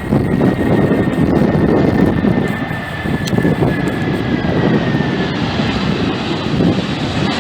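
Jet airliner's engines running loud as it passes: a steady high whine over a dense, deep noise, the whine dipping slightly in pitch about five seconds in.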